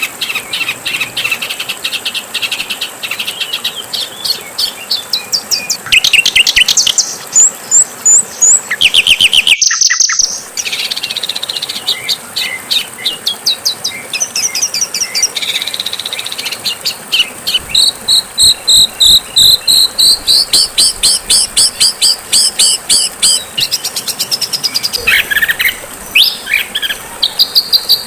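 Songbird song from a masteran training recording: fast, loud series of sharp chirps and trills, repeated in bursts of several notes a second, over a steady high hiss. A brief dropout about ten seconds in marks a cut between clips.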